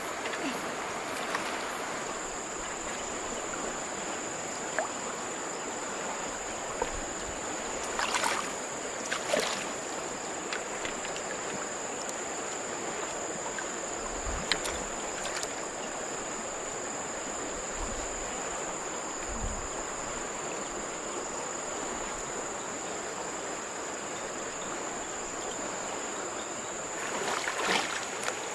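River water running steadily, with a thin, steady high insect drone over it and a few short splashes, the loudest near the end.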